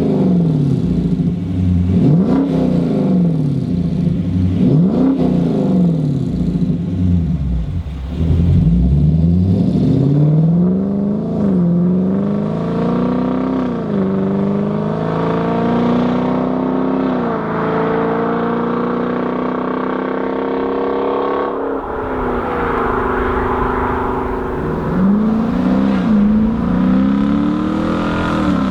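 Dodge Charger R/T's 5.7 Hemi V8 through a Solo Performance MR212-HJ stainless converter-back exhaust with H-pipe and J-pipes. It revs up and down several times, then climbs in pitch in stages with short drops between, eases off about two-thirds through, and revs up again near the end.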